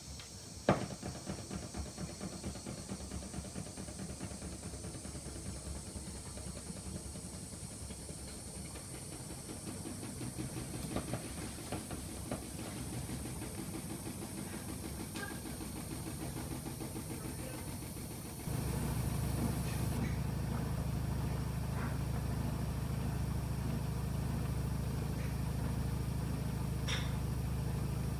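AEG Öko-Lavamat 85739 front-loading washing machine running a cycle, with a few clicks over the motor and drum. About 18 seconds in it abruptly gets louder and settles into a steady low hum.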